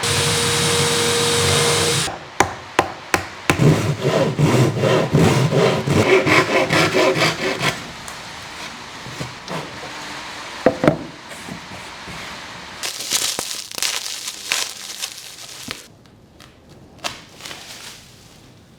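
A steady hiss cuts off about two seconds in. It is followed by a run of quick rubbing strokes on wood, then lighter, scattered scrapes and taps.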